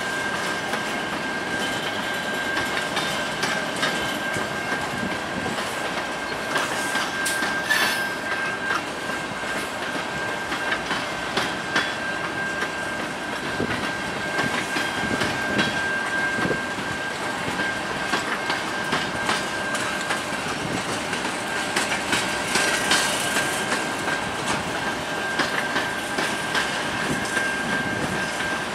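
Covered hopper grain cars of a long freight train rolling past, their wheels clacking over rail joints. A steady high whine sits over the rumble.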